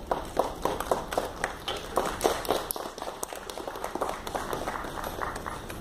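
Audience applauding: many irregular, overlapping hand claps.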